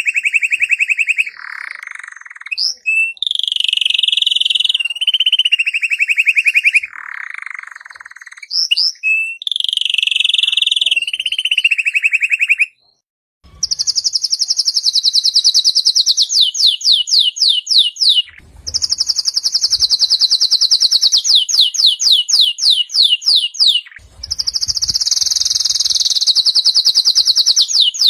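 Domestic canary singing long, rapid rolling trills, each held for several seconds. About halfway in the song breaks off briefly, then goes on higher-pitched, with runs of quick falling notes.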